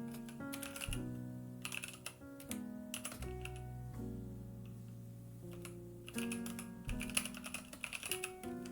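Computer keyboard typing and clicking in short bursts over background music with a bass line and plucked or keyboard notes.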